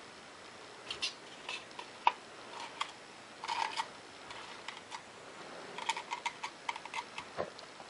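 Hot glue gun and foam cup being handled while glue is run around the cup's seam: scattered small clicks and brief crinkling. There is one sharp click about two seconds in and a quick run of clicks about three quarters of the way through.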